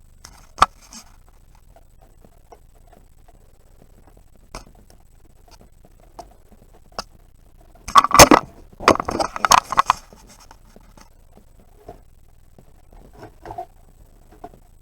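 Scraping and clattering from hands and tools working on a portable fridge's plastic casing during disassembly: a sharp click under a second in, scattered light ticks, then a loud burst of scraping and rattling about eight to ten seconds in.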